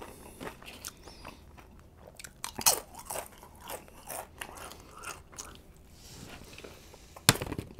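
Close-miked chewing of a mouthful of burrito: soft, wet mouth clicks and crunches, then another bite into the burrito. A sharp click stands out near the end.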